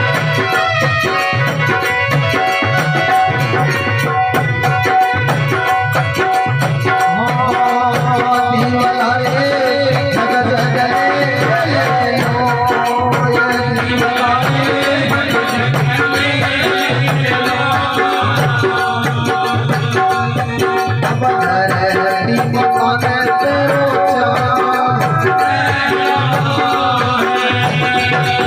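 Live Rajasthani devotional folk music: a steady drum beat with rattling percussion under a sustained melody, with no clear words.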